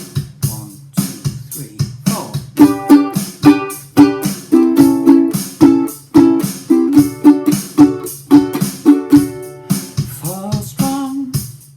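Ukulele strummed in a down-up chunking pattern, with muted chops between chords, over a steady drum-machine beat. The playing stops near the end.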